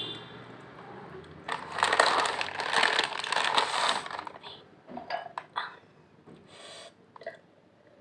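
Crackly crunching and crinkling of Lay's potato chips and their bag. A dense burst lasts about two and a half seconds, followed by scattered short crunches and clicks.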